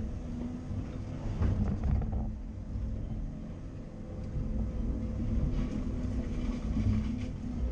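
CAT 330 Next Generation excavator's Cat C7.1 diesel engine working under load, its steady rumble rising and falling. Harsher clattering noise comes about a second and a half in and again near the end.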